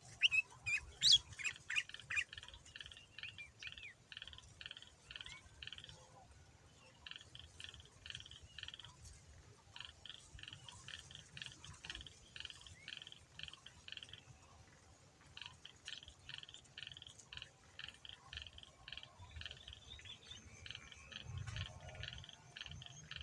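Sooty-headed bulbul (kutilang) singing: a few loud whistled notes at first, then long runs of rapid, evenly repeated chattering notes broken by short pauses.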